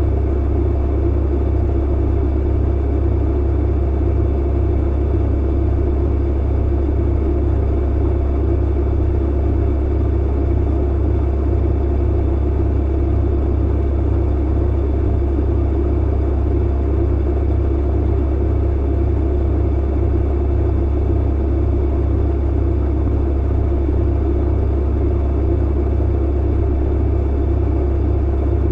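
Clothes dryer running: a steady low hum and rumble that does not change.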